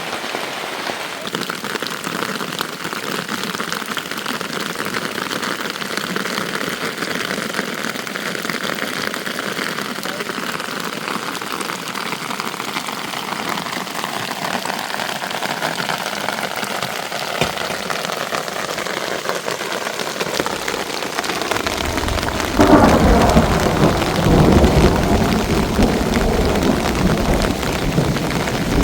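Rain falling steadily with an even hiss. About 22 seconds in, a loud, low rumble of thunder breaks in and rolls on.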